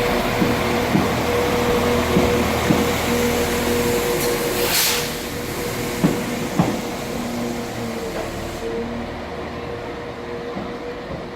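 Northern Class 195 diesel multiple unit passing through, its drivetrain humming with steady tones over a rumble, with a few sharp clicks from the wheels on the track and a brief hiss about five seconds in. The sound fades steadily as the train moves away.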